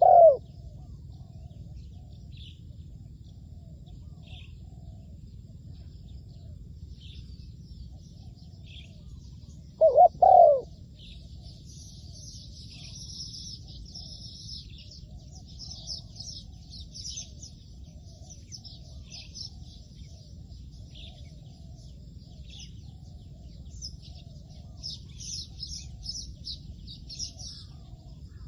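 Spotted dove cooing loudly twice, once right at the start and again about ten seconds in. Small birds chirp and twitter at a high pitch throughout, busier in the second half.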